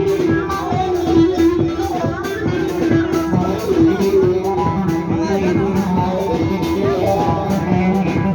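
Turkish folk music in the ağırlama style: an instrumental passage of plucked strings playing a winding melody over a steady drum beat.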